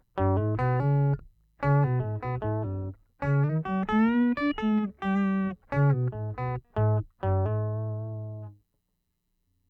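Electric guitar played through a Boss OC-5 octave pedal set for a bass sound: a riff of short single notes, strong in the low end, ending on a note held for about a second that stops shortly before the end.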